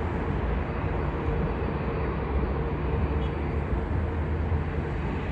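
Jet airliner taxiing toward the runway, its engines giving a steady rumble with a faint steady hum.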